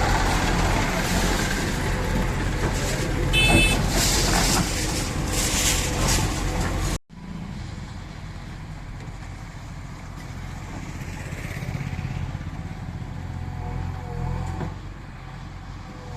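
Heavy machine's engine running steadily, loud for the first seven seconds with a short high beeping tone about three and a half seconds in. It then cuts off abruptly and is replaced by a quieter stretch of engine running.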